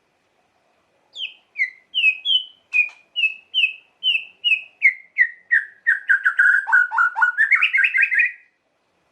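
White-rumped shama singing, a shrill song of separate down-slurred whistled notes, about two to three a second, each stepping a little lower. The notes quicken into a fast rattling trill that stops shortly before the end.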